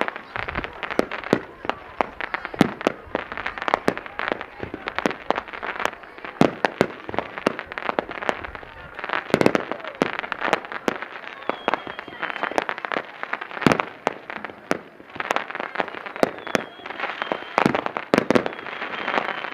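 Aerial fireworks display going off in rapid succession: a continuous barrage of bangs and crackling, with a few short high whistles near the middle and near the end.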